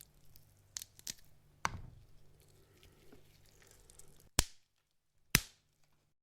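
Raw meat sound effects: soft, faint wet handling noises, then two sharp slaps or chops on meat about a second apart, the loudest sounds here.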